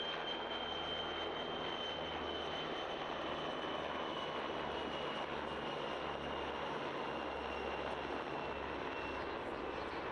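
PZL W-3A Sokół helicopter's twin turboshaft engines and rotor running steadily, a high turbine whine slowly dropping in pitch over a low rotor throb.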